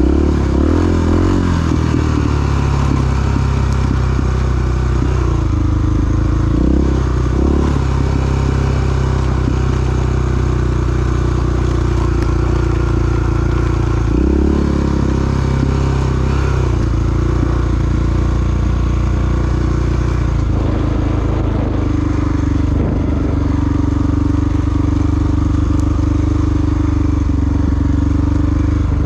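Big single-cylinder four-stroke dual-sport motorcycle engine running under way, heard from the rider's position. The note is steady, with brief dips and pick-ups near the start and about 7 and 14 seconds in, like shifts or throttle changes.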